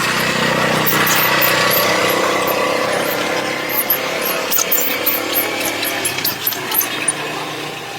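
A motor running steadily, humming at a few fixed pitches, with short high-pitched chirps above it; it eases off slightly near the end.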